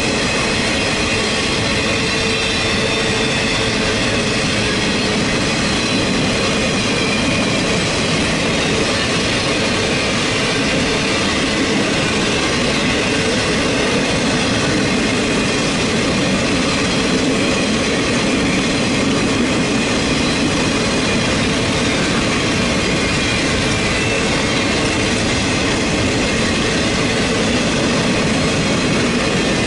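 Empty boxcars of a Union Pacific freight train rolling past at steady speed: a continuous rumble and rattle of wheels on rail, with faint steady high-pitched tones riding over it.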